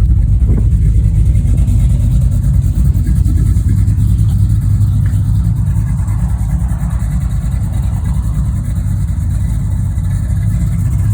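A 1981 GMC Sierra 1500's 350 small-block V8, bored .060 over to about 360 cubic inches with a mild cam, aluminum heads and long-tube headers, running loud and steady at idle.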